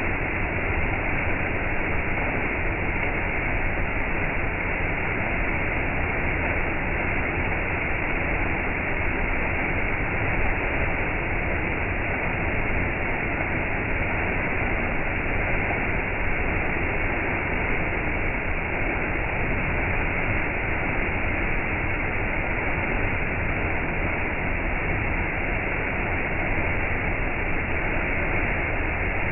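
Waterfall rushing, a steady unbroken roar of falling water with no change in level.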